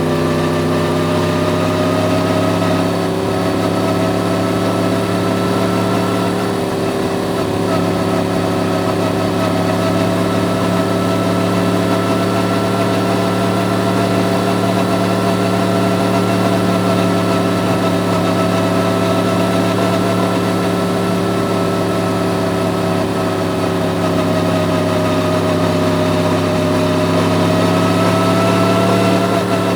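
Yamaha MT-10's crossplane inline-four engine running steadily at nearly constant revs, its pitch rising slightly near the end.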